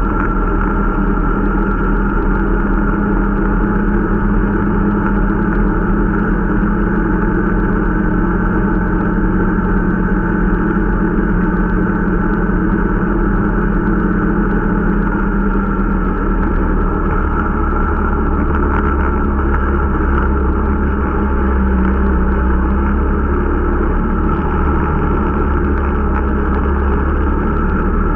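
Irbis Dingo T125 snowmobile's small four-stroke engine running steadily under way while the new machine is being run in. The engine note changes slightly about halfway through.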